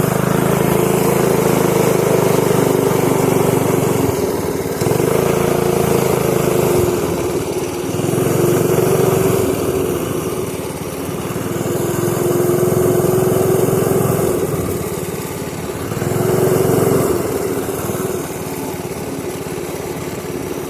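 Pit bike engine running under way, the revs swelling and easing off about five times as the throttle is worked.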